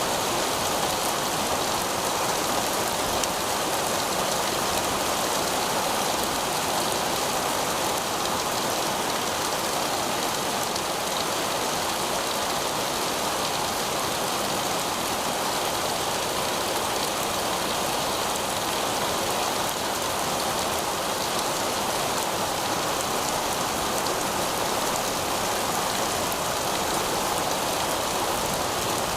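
Heavy rain falling steadily on pavement, a dense even hiss with scattered faint drop ticks.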